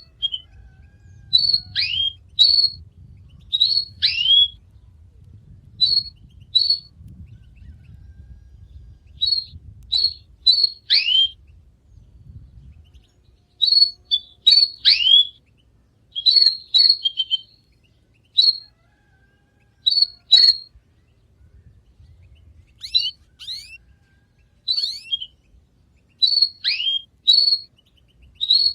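Canary singing in short, separate phrases: high chirps and quick downward-sliding whistle notes, with brief pauses between the bursts. A faint low rumble runs underneath.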